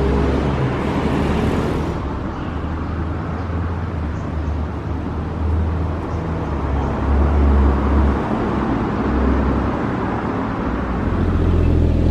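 Porsche 981 Cayman S flat-six engine and exhaust running as the car is driven: a low rumble that swells and fades, under a steady rushing road noise.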